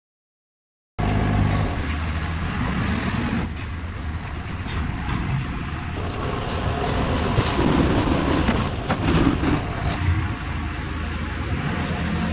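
Diesel engine of a self-loading concrete mixer running steadily, with some knocks and clatter on top. The sound starts suddenly about a second in.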